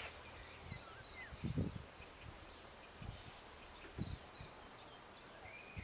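Small birds chirping: short, high, falling notes about two to three times a second, with a short rising call near the end. A few low thuds, the loudest about one and a half seconds in.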